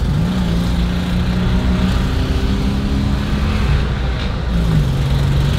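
Classic Fiat 500's small two-cylinder engine running while driving, its pitch rising just after the start, stepping up about two seconds in and dropping near the end as the revs change.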